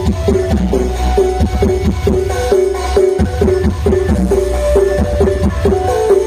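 DJ remix dance music blasting through a large carnival sound system, with a fast repeating melody of short notes over a heavy, constant bass.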